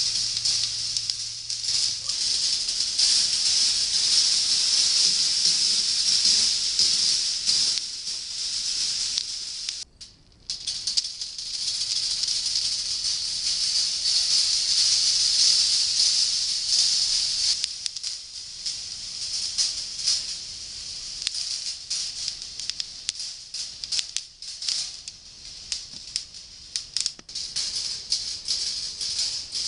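Balls rolling along the stainless steel rails of a desktop rolling ball sculpture: a continuous high, rattling hiss. It breaks off briefly about ten seconds in and turns choppier, with separate clicks, in the second half.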